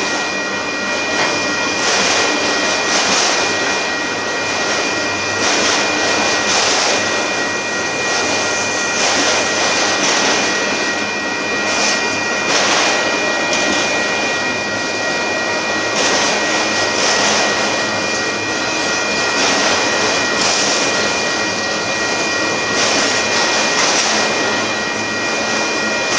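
Union Pacific freight train of auto rack cars rolling past: a steady, loud rumble and clatter of steel wheels on rail that swells gently every second or two, with a steady high-pitched tone running over it.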